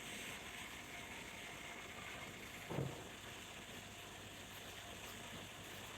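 One soft, low thud about three seconds in, like a small toy piece being set down or tapped on a surface, over a faint steady hiss.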